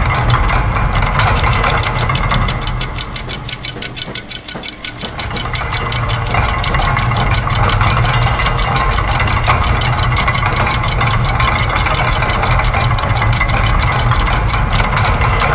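Layered loops of factory machine sounds: a fast, even mechanical ticking, about five or six a second, over a steady low hum. The mix dips briefly about four seconds in and then returns.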